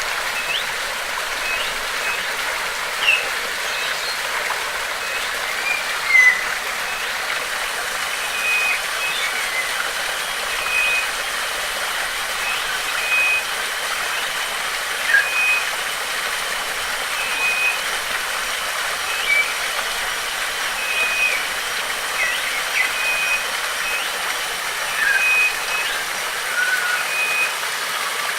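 Steady rush of a waterfall with birds calling over it: one bird repeats a short even note about once a second, while others add brief chirps and quick whistled slurs.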